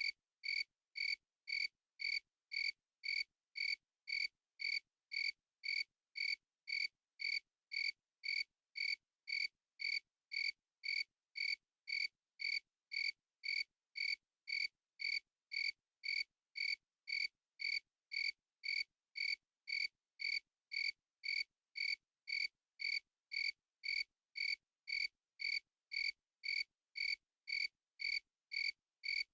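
A cricket chirping steadily, a short clear pitched chirp about twice a second with silence in between, keeping the same even rhythm throughout.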